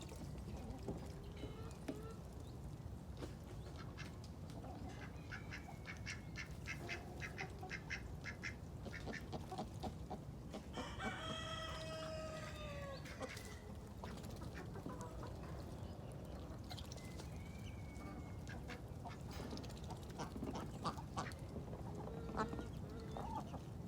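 Backyard poultry calling: chickens clucking and ducks calling in short bursts, with a rooster crowing once, one long call of about two and a half seconds, about eleven seconds in.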